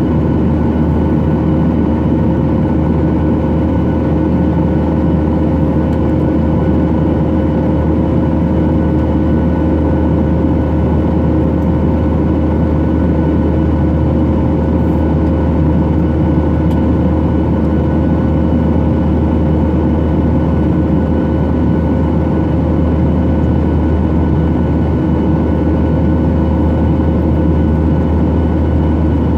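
Steady jet engine and airflow noise inside the cabin of a Boeing 737-800, its CFM56-7B engines running at a constant setting. A low drone sits under a dense rushing noise, with a few faint steady tones on top.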